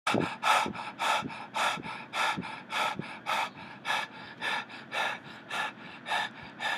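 A running man breathing hard and rhythmically, puffing in and out about twice a second.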